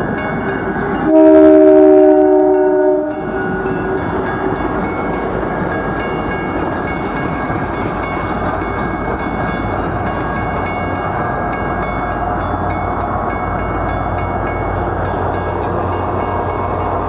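Commuter train's horn blasts once for about two seconds, a few steady notes sounding together, as the cab car comes past. The bilevel coaches then roll by with a steady rumble of wheels on rail. Near the end a low diesel engine hum builds as the pushing locomotive approaches.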